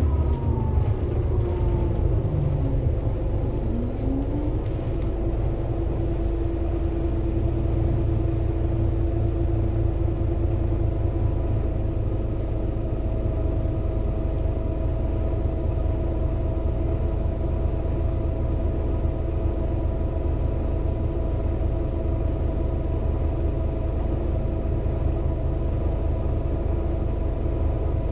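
Scania K230UB city bus's five-cylinder diesel engine and ZF Ecomat automatic gearbox. Its pitch falls in the first second as the bus slows, a short rising whine comes about three to four seconds in, and it then runs steadily at an even pitch.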